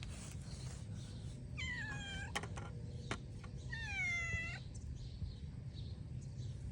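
A cat meowing twice: two drawn-out calls that fall slightly in pitch, about two seconds apart, over a steady low rumble.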